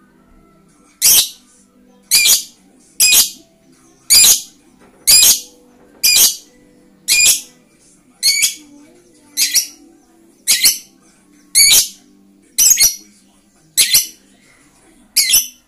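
Pet lovebird giving a steady series of loud, harsh squawks, about one a second, starting about a second in.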